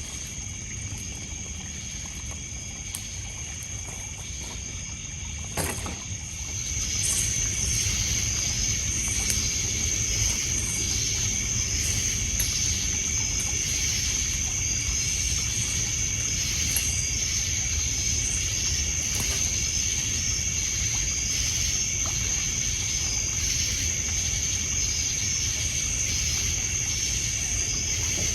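Crickets and other night insects trilling steadily in a high, continuous tone with short repeated chirps, louder from about six seconds in, over a low wash of water lapping on a pebble shore. A single sharp crack from the fire comes just before the insects swell.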